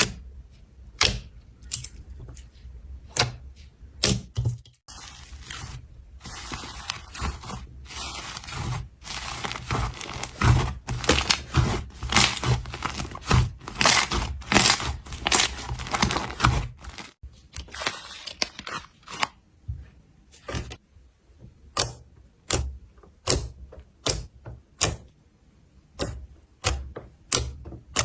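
Slime being pressed and worked by hand, giving a run of sharp clicking pops about once a second, with a denser, louder stretch of crackling clicks in the middle.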